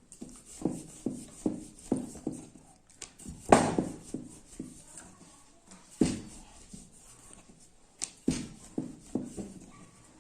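Rolling pin and board knocking rhythmically, about two or three knocks a second, as small rounds of dough are rolled out; one louder knock a little past three seconds in.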